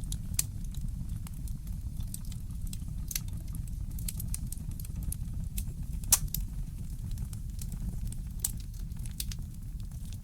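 Wood fire in a fireplace crackling, with irregular sharp pops, the loudest about six seconds in, over a steady low rumble.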